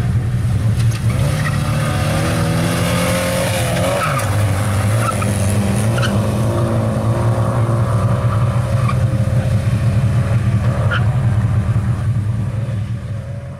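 Skoda 105 rally car's four-cylinder engine running hard at racing speed; its pitch drops sharply about four seconds in, then holds.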